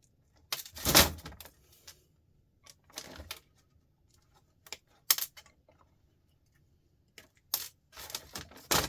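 Small loose metal scrap pieces clattering and clinking as they are handled and dropped, in several separate bursts, the loudest about a second in.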